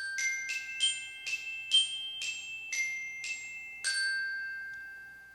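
A short melody of bell-like struck notes on a glockenspiel-type mallet instrument, about two notes a second, the last note ringing out and fading.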